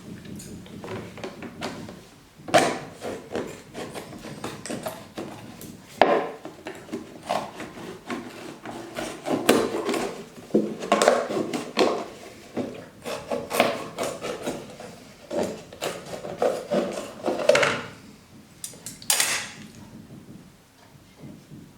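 Irregular knocks, clatters and rubbing of objects being handled, with a short hissing swish near the end.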